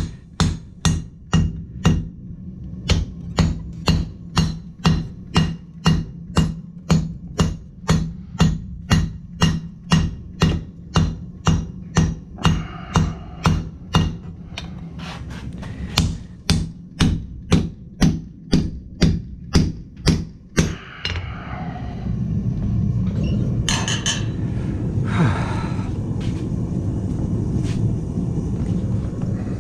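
Hand hammer striking hot steel on an anvil, a steady run of blows about two a second with a brief pause partway through, as a blade is forged. About twenty seconds in the hammering stops and a steady rushing noise takes over.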